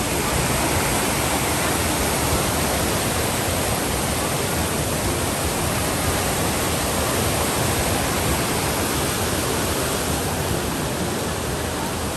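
Steady, loud rush of a waterfall's falling water, even and unbroken.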